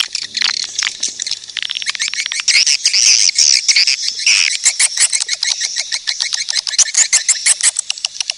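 Swiftlet lure-call recording: dense, rapid twittering and chirping of many swiftlets, of the kind played to draw swiftlets into a nesting house.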